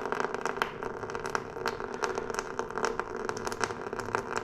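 Hands working on two-stroke dirt bike engine parts: a dense run of small clicks, rattles and scrapes of metal parts and tools, over a steady low hum.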